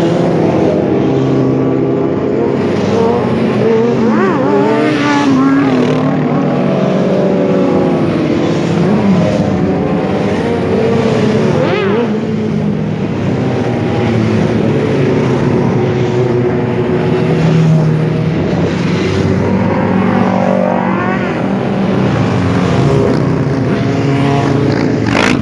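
Several motorcycle engines running together, with revs rising and falling now and then.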